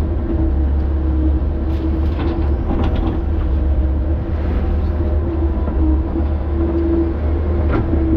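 Diesel engine of a heavy earthmoving machine running steadily with a deep drone and a constant hum, with a few short knocks or clanks of the machine working.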